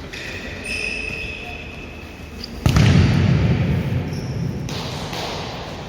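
Futsal play on a court: shoes squeak briefly in the first two seconds, then a sudden loud thud about 2.7 s in is followed by a low rumbling noise that fades over about two seconds.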